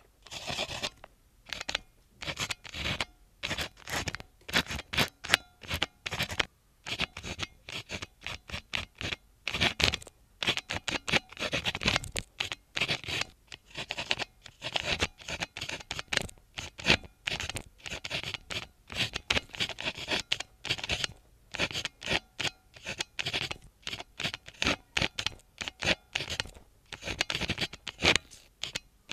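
A pen writing on memo-note paper: quick scratchy strokes in runs, with short pauses between them.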